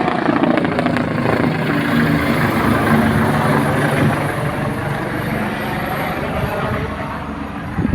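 Air ambulance helicopter in flight, its rotors and engine giving a steady drone with low humming tones as it approaches to land, easing slightly near the end.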